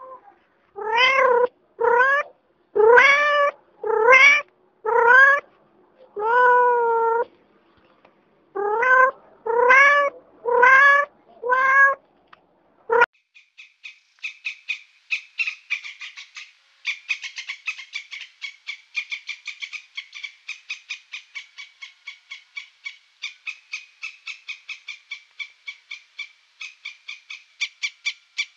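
About ten meow-like calls, each under a second long and bending up in pitch, fill the first half. Then comes a long run of fast, sharp clicking chatter from a red squirrel.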